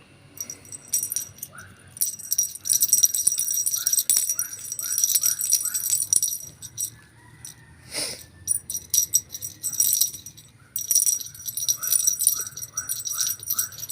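Small jingle bell shaking in quick bouts as a cat plays, with a lull of a few seconds in the middle.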